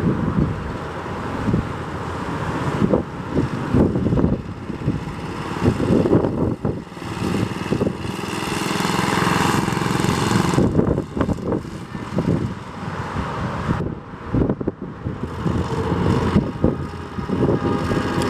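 Single-cylinder engine of a 1965 Cushman Eagle scooter running, its sound rising and falling, loudest around the middle.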